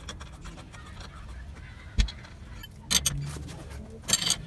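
Metal clinks and scraping of a wrench and bar against the wheel hub while a wheel nut is tightened to draw a new wheel stud into the hub. A sharp knock comes about two seconds in, and short clusters of clinks come about three and four seconds in.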